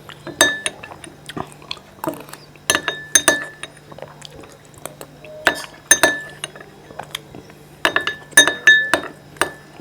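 A spoon clinking and scraping against a bowl while dessert is eaten, in clusters of sharp strikes about every two to three seconds. Several strikes leave a short ringing tone.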